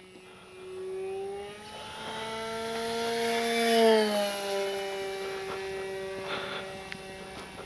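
Electric RC sport plane's brushless motor and propeller whining in flight. The whine grows louder and a little higher, is loudest about four seconds in, then drops in pitch as the plane passes.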